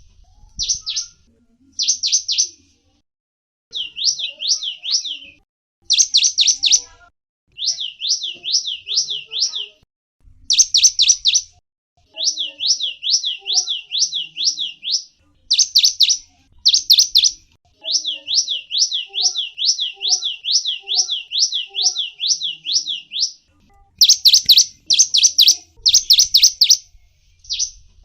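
A gelatik wingko songbird singing: rapid runs of high, sharp chirps and down-slurred whistled notes, about three or four a second. The runs last a few seconds each, with short pauses between them.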